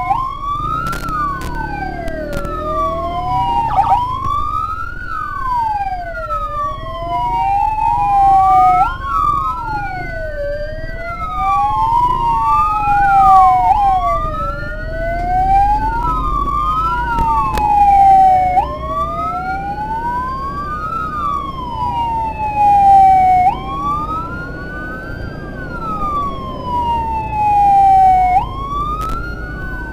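Two electronic sirens wailing out of step, each pitch sliding slowly up and down, over the low rumble of engines and road.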